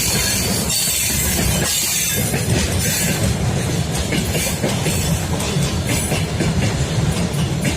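Freight train rolling past close by, its wheels knocking steadily over the rail joints.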